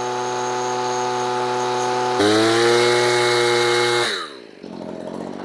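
Stihl BG85 leaf blower's two-stroke engine running steadily, then revving up sharply about two seconds in and holding high speed, a full-throttle check of the carburettor setting that sounds normal rather than rich. Near the end the throttle is released and the engine speed falls away.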